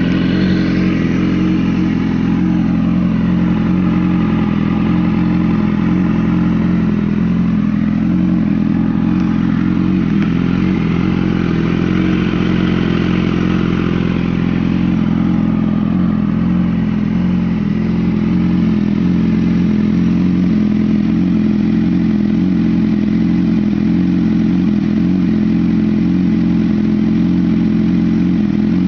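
BMW S1000RR's 999 cc inline-four engine idling steadily.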